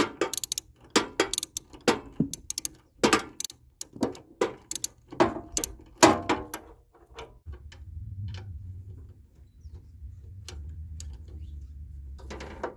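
Hand tool working a nut: a run of irregular sharp metal clicks and clinks for about seven seconds, as a wrench fastens a nylock nut on the tractor's tiller mount. A low steady hum follows.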